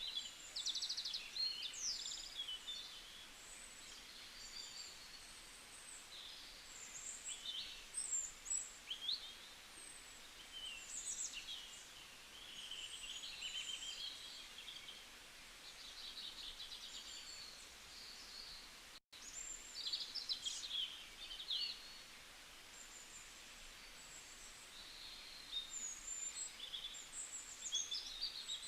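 Several small songbirds chirping and trilling, their calls overlapping, over a faint steady hiss. The sound cuts out for an instant about two-thirds of the way through.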